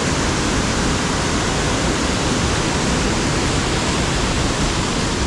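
Rushing water of the Pike River's waterfall: a steady, loud even rush.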